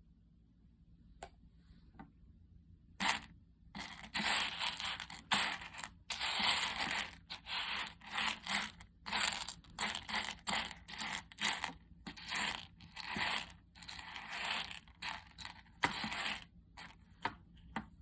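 Coffee beans scraping and crunching in irregular bursts, about one to two a second, starting about three seconds in after a couple of faint clicks.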